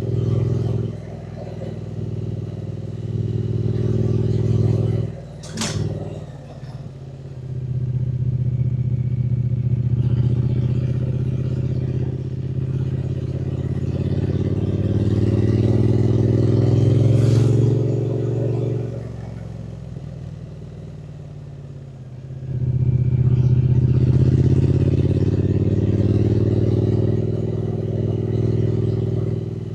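Triumph Speed Twin 900's parallel-twin engine heard on board while riding, pulling under throttle with its note climbing as it accelerates. The engine note drops away briefly about five seconds in and again from about 19 to 22 seconds before pulling up again, with a single sharp click about five and a half seconds in.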